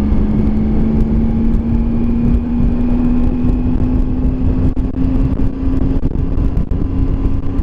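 Triumph Tiger 800 motorcycle's three-cylinder engine running at a steady cruising speed, its drone rising very slightly, under a heavy low rumble of wind on the microphone.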